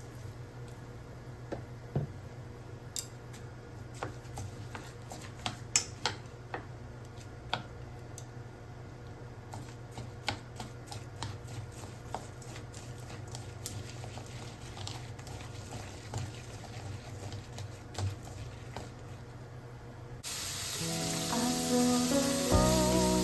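Scattered light clicks and taps of kitchen utensils over a low steady hum, then, about 20 seconds in, food starts sizzling loudly in a hot frying pan.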